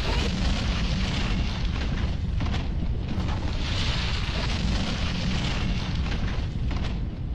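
Loud, continuous rumbling roar with many sharp crackles and clatters running through it, like shaking structures and falling debris during an earthquake.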